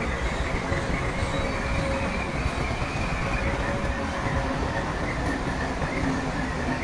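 Shantui crawler bulldozer working: its diesel engine runs steadily under the clatter of its steel tracks, with a thin squeal from the tracks.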